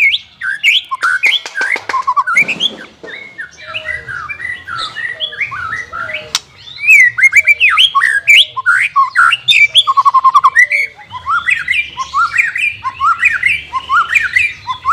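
White-rumped shama (murai batu) singing a fast, varied run of sweeping whistles and chirps, with a quick rattling trill about ten seconds in.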